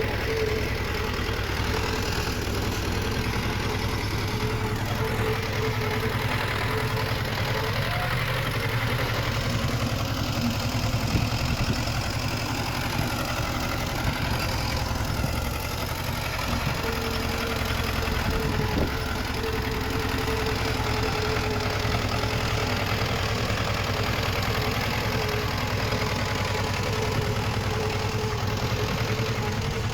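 Diesel engine of heavy earthmoving machinery running steadily, with a few faint knocks and clanks in the middle.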